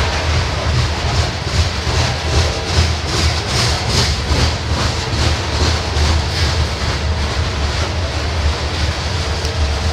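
Covered hopper cars of a grain train rolling past close by: steel wheels on the rails give a steady low rumble and clatter, with a run of rhythmic clacks, about three a second, in the middle.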